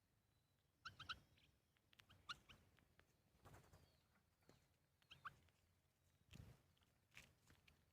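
Faint short bird chirps, mostly in quick pairs, heard a few times, with scattered light clicks between them.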